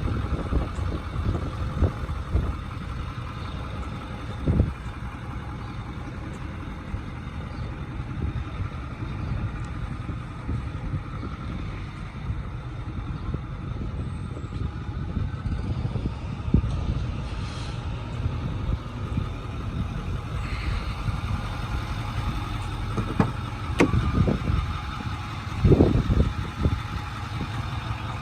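A 2008 Ford F-250's Power Stroke turbo diesel idling steadily. A few short thumps come about four and a half seconds in and near the end.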